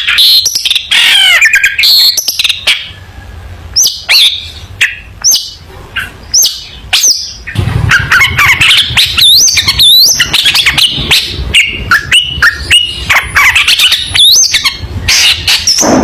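Long-tailed shrike (cendet) singing a fast, varied song of sharp clicks, chirps and up-and-down whistled notes. The notes thin out to single calls for a few seconds, then come thick and fast again from about halfway.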